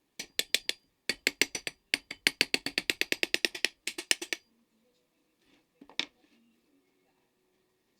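A fast run of sharp, light taps, in three bursts over about four seconds, then a single louder tap about two seconds later.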